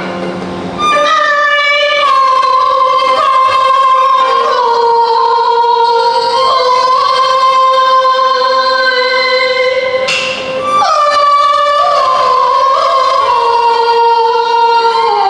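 Teochew opera music: a high melody of long held notes that step and slide between pitches, with a sharp percussion clack near the start and another about ten seconds in.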